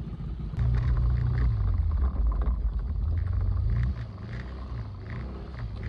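Motorcycle engine running under throttle, getting louder about half a second in and easing off near the four-second mark, with light clattering over it.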